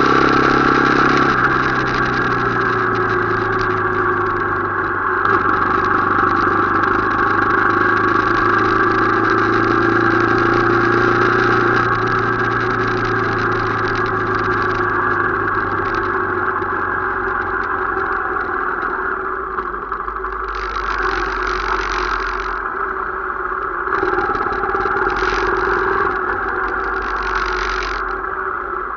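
Motorcycle engine running steadily while riding, its pitch drifting slowly up and down.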